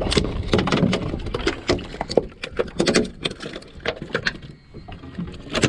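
Irregular clicks, knocks and splashes as a hooked speckled trout is brought in and landed at a kayak.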